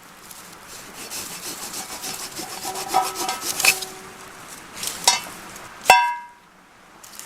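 Hand saw cutting wood in quick rhythmic strokes, the blade ringing faintly, followed by a couple of knocks and one sharp metallic clink that rings briefly near the end.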